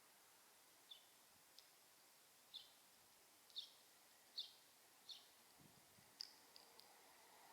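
House sparrow chirping: about six short single chirps, each dropping slightly in pitch, spaced unevenly a second or so apart.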